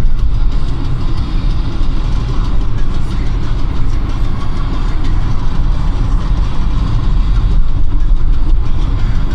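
Car driving in city traffic: a steady, loud low rumble of engine and tyres on the road.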